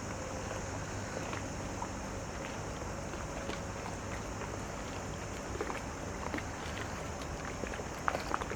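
Harbourside outdoor ambience: a steady low hum of distant engines under a steady high hiss, with scattered small clicks and taps, a few sharper ones near the end.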